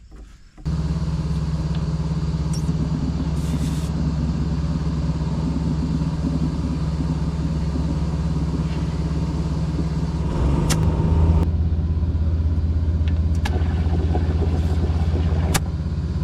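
Air compressor running steadily while a tractor tire is inflated. It kicks on abruptly, its pitch steps up for about five seconds near the end, then settles back, with a few sharp clicks along the way.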